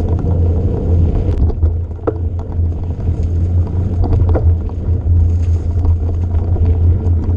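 A vehicle engine running steadily with a low rumble, with scattered knocks and rattles over it.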